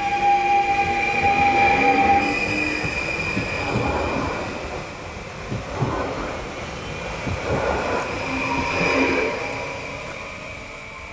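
A train passing through a station. Its horn sounds and stops about two seconds in, then the wheels knock over rail joints and squeal faintly, and the sound fades away near the end.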